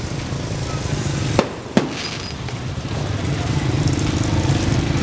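Two sharp firework bangs about half a second apart over the steady noise of a crowded street, with a steady low drone starting a little past halfway.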